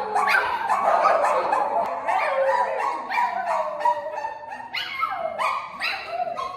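Dog barking and howling in a quick run of loud calls, each falling in pitch.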